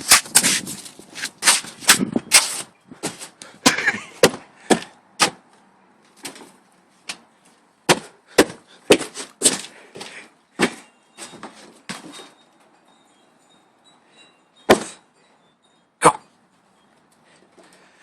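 Sharp crunches and thumps in quick irregular succession, thinning after about twelve seconds to two single knocks.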